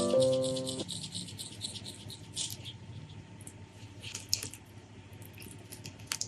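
Piano-like intro music ends about a second in. It is followed by close-miked, scattered small clicks, crackles and squishes of food being handled and eaten.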